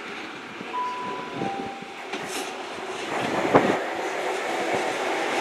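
Class 43 High Speed Train power car 43003 running into the station to make a stop, its engine and wheel noise growing steadily louder as it approaches. A short high tone sounds about a second in, and there is a single sharp click partway through.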